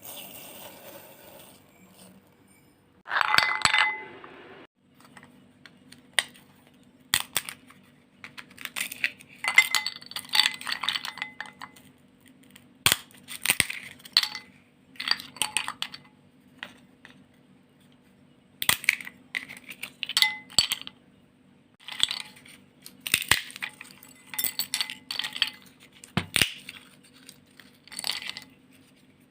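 Many clinks and knocks of small hard objects, coming in irregular clusters, with a louder rustling burst about three seconds in, over a faint steady hum.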